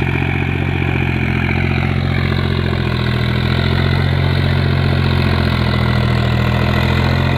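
Tractor engine running at a steady speed, a low, even throb that holds unchanged.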